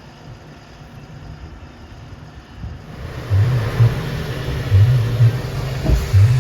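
JCB 3DX Xtra backhoe loader's diesel engine running, turning much louder about three seconds in with repeated low surges.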